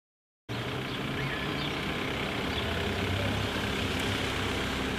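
Car engine idling, a steady low hum with outdoor noise, starting suddenly about half a second in.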